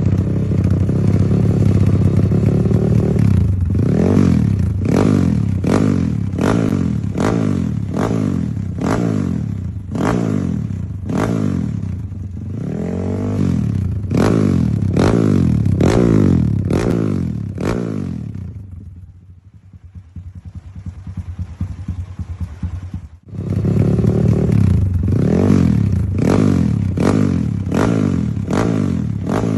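Kawasaki KLX dirt bike with a JMR aftermarket exhaust, being blipped over and over: quick rises and falls in revs, about two a second. A few seconds past the middle the engine drops to a low, uneven idle, then goes back to repeated blips.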